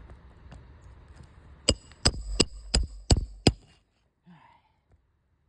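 Hammer blows on a roof shingle during a shingle repair: six quick, sharp strikes with a metallic ring, about three a second, beginning just under two seconds in.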